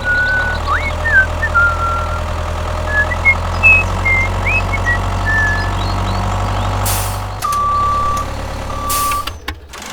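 A low engine-like rumble runs under short, high, chirping calls, and the rumble stops about seven and a half seconds in. A long steady beep follows for nearly two seconds.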